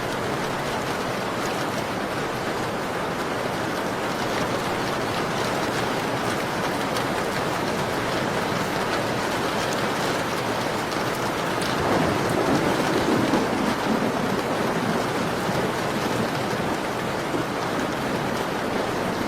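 Steady rain pattering on a window pane, a constant even hiss with scattered small drop ticks. About twelve seconds in the sound swells briefly with a deeper surge before settling back.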